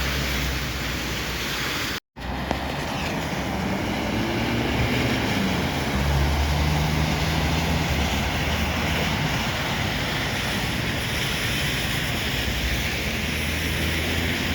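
Street traffic: a vehicle engine running with a low hum over steady road noise, broken by a moment of silence about two seconds in.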